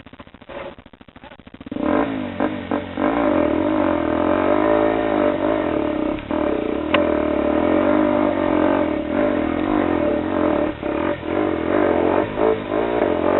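Motorcycle engine revving hard under load on a hill climb, its pitch rising and falling as the throttle is worked. It comes in loudly about two seconds in.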